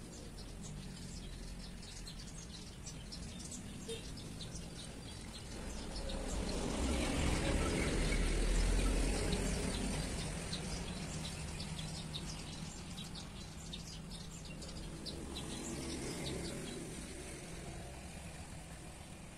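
Small birds chirping in short repeated calls over open-air background noise, with a broad rushing noise that swells up about a third of the way in, peaks near the middle and fades away again.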